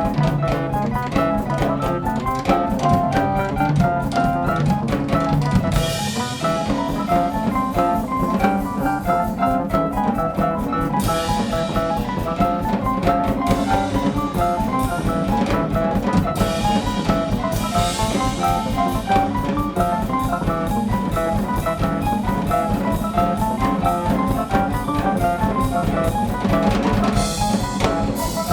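Live band music driven by a drum kit, with a steady beat under bass and chordal instruments and cymbal crashes every few seconds.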